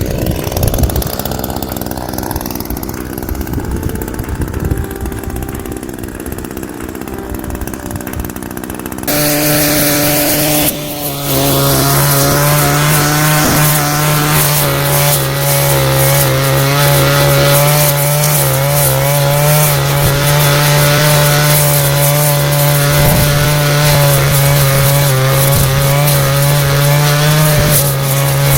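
Two-stroke engine of a brush cutter running. About nine seconds in it changes abruptly to a steady high-revving drone, held at high throttle to the end.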